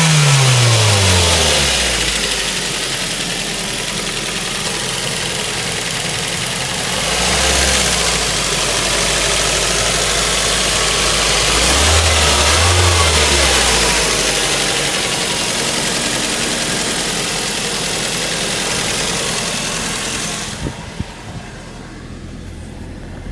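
Ford Focus 2.0 petrol AODA engine, a four-cylinder Duratec, idling with its revs falling from a blip at the start, then blipped twice more. It sounds healthy and runs smoothly between the blips. Its sound falls away sharply near the end.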